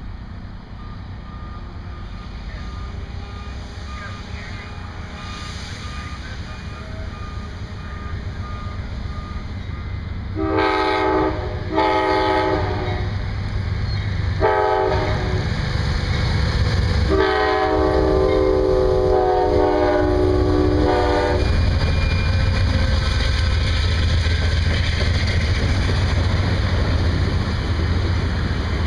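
An Amtrak GE Genesis diesel locomotive approaches and, about ten seconds in, sounds its multi-note air horn in the grade-crossing pattern: long, long, short, long. The train then passes close by with a loud, steady rumble from the locomotive and the cars rolling on the rails.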